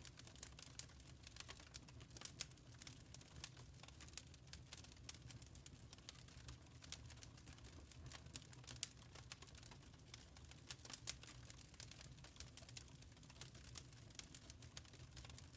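Wood fire crackling in a fireplace: quiet, irregular pops and snaps over a steady low rumble.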